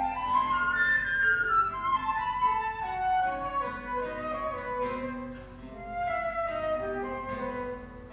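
Flute and guitar duo playing classical chamber music: the flute carries a flowing melody over the guitar's plucked notes.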